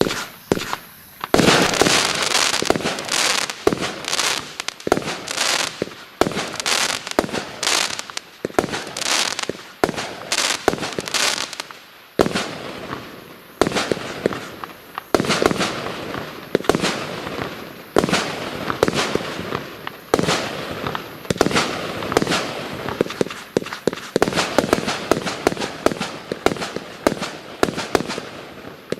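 A 130-shot, 20 mm firework cake firing: a rapid, continuous string of shots, several a second, starting about a second in, with a brief lull near the middle.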